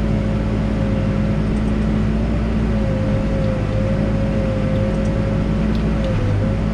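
Backhoe loader's diesel engine running steadily at working speed while digging, with a steady whining tone that wavers slightly in pitch.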